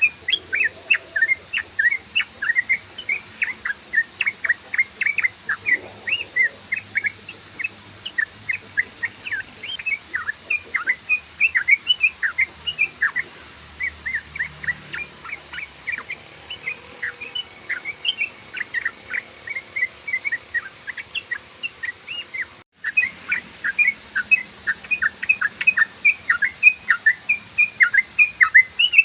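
Yellow-vented bulbul (trucukan) singing its rapid 'ropel' song: a continuous stream of short, sharp chirping notes, several a second. The song breaks off for an instant about three quarters of the way through, then carries on.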